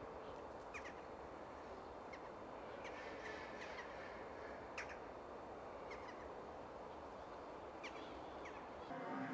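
Birds calling outdoors: short, sharp calls scattered irregularly, about ten in all, over a steady background hiss.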